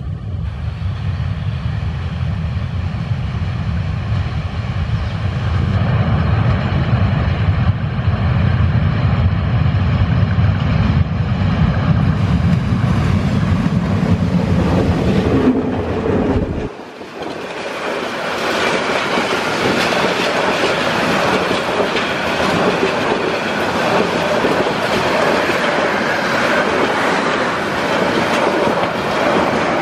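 Diesel locomotive of a passenger train approaching, its engine a deep steady rumble. About seventeen seconds in, the rumble drops away abruptly and the loud rattling clatter of the passenger coaches rolling close past takes over, with wheels clacking over the track.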